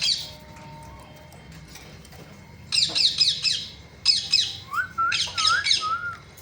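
Pet parrot squawking in runs of harsh, high screeches: one at the start, then several rapid runs of quick repeated calls from about the middle on. Some smooth looping whistled notes are mixed in near the end.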